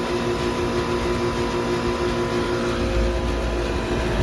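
Heat pump outdoor units running: a steady compressor hum with several even tones, over the noise of the condenser fans.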